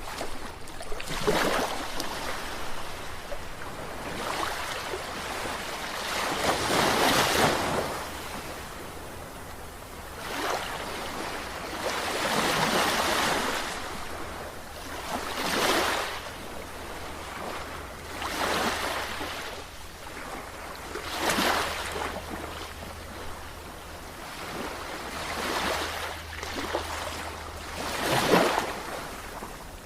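Sea waves breaking and washing in, the surf swelling and falling away every few seconds, over a steady low rumble.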